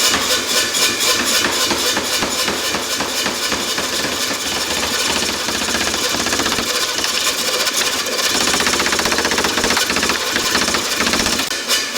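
Power hammer striking steel in a fast, even run of blows, slowing to separate, evenly spaced strokes near the end.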